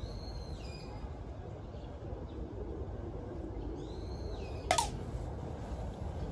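A bird gives two short calls, each gliding down in pitch, about four seconds apart, over a low steady rumble. A sharp click comes just after the second call.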